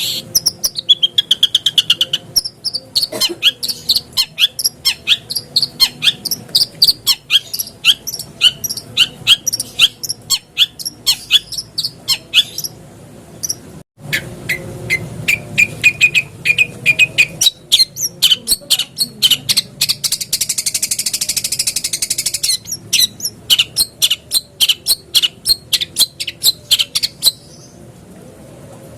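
Long-tailed shrike (cendet) song from a bird-keeping lure recording: a fast run of sharp, high chattering notes, a few a second, with a harsh buzzing churr about two-thirds of the way in. The recording breaks off for a moment near the middle before resuming.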